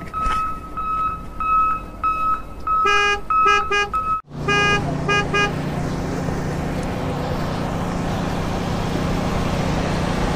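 Toy vehicle sounds: a high electronic beep repeated about twice a second, then a run of short horn toots that breaks off abruptly about four seconds in. A few more toots follow, then a steady low engine-like hum.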